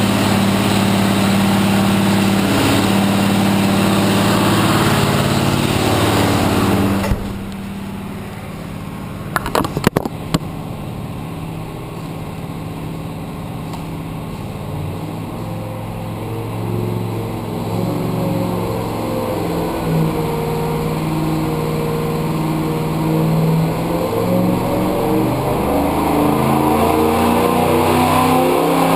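Carbureted 306 small-block Ford V8 marine engine running on an engine dyno: loud and close at first, then muffled behind the dyno cell's window after a drop about seven seconds in, with a few sharp knocks a few seconds later. From about two-thirds of the way through, the engine speed climbs steadily and it gets louder, as in a dyno pull.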